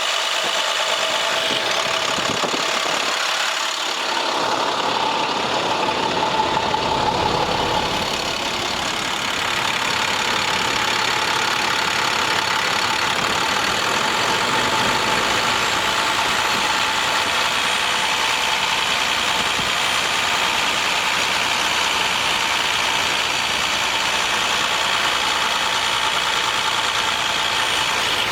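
International MaxxForce DT diesel engine of a heavy water truck running at a steady idle. A deeper low rumble comes in about four to eight seconds in and then holds steady.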